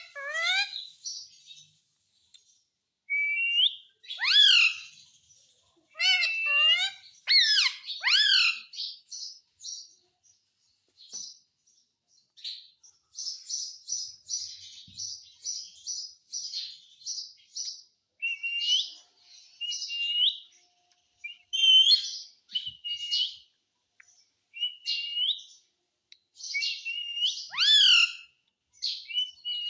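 Indian ringneck parrot chirping and squawking: a string of short, high calls, some swooping in pitch, with a quick run of repeated chirps midway.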